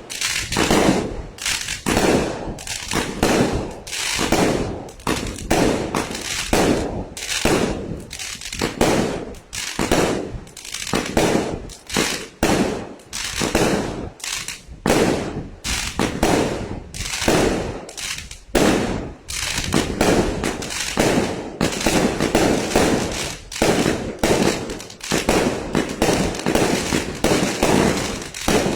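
A 36-shot firework cake firing 2.5-inch shells in quick succession, a little over one loud bang a second, each with a brief crackling tail.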